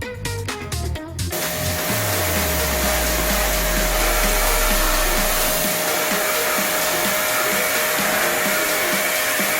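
High-pressure washer spraying water onto a disassembled air conditioner: a loud, steady hiss that starts about a second in, after a short stretch of beat-driven music.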